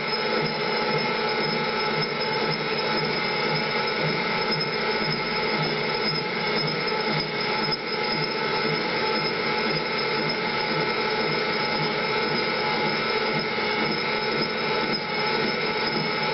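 Machine tool running steadily, giving a continuous high whine made of several steady tones over a mechanical hiss.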